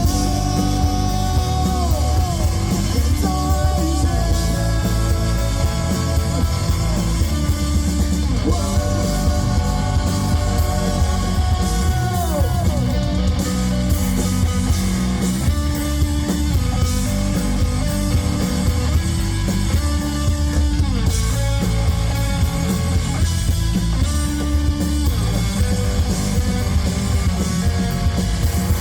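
Live rock band playing a song at full volume: electric guitars, bass and drums, with melody lines that bend and slide in pitch.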